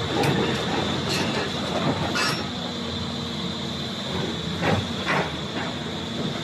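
Volvo EC360BL excavator running, its engine and hydraulics making a steady noise with a constant high whine, broken by several sharp knocks, two of them close together past the middle.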